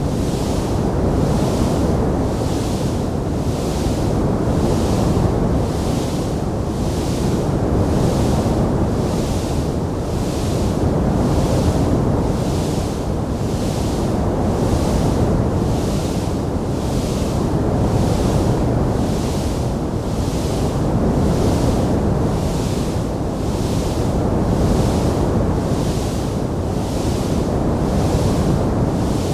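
Wood fire burning in a fireplace: a steady low rushing roar with a hiss on top that swells and fades regularly about once a second. No separate crackles or pops stand out.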